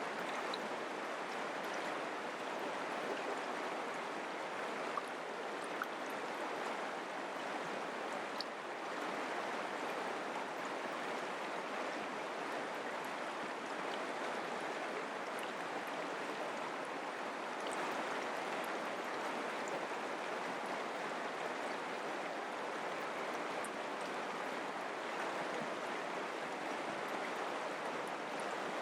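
Mountain creek flowing over rocks: a steady rushing of water with faint small splashes.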